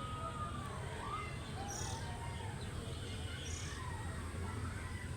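Birds calling: a short high chirp repeated every couple of seconds and lower gliding whistled notes, over a steady low rumble.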